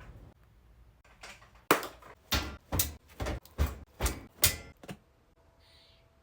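Rhythmic clacking from something being mixed by hand, about seven sharp knocks at an even pace, followed by a faint steady hum near the end.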